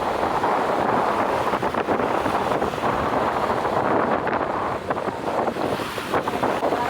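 Strong wind buffeting the microphone: a loud, gusting rush with no let-up.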